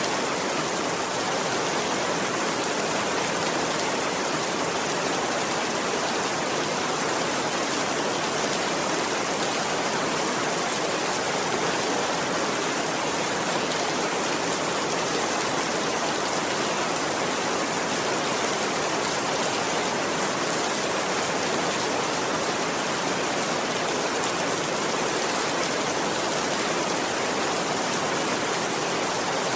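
Steady rainfall, an even hiss that does not change, with no thunder.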